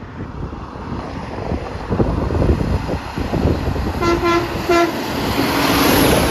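A passing truck's horn gives three short toots about four seconds in, over the rumble of road traffic and wind on the microphone. The truck's noise then swells as it goes by, near the end.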